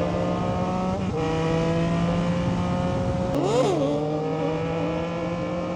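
Dirt bike engine running under way, its pitch climbing slowly, with a gear change about a second in and a quick rev up and back down a little past halfway.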